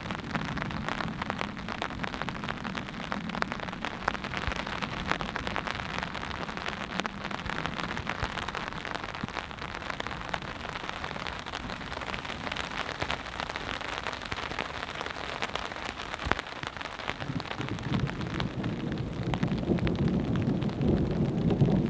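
Steady rain pattering on a silnylon tarp overhead, thick with individual drop ticks. A low rumble of distant thunder builds over the last few seconds.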